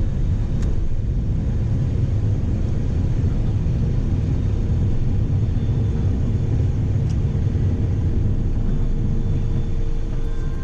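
Steady low rumble of a vehicle running, with a faint steady hum above it.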